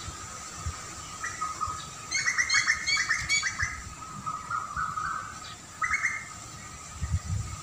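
Wild birds chirping: a quick run of rapid chirps about two seconds in that lasts over a second, then a shorter call near six seconds, over a steady high-pitched background tone.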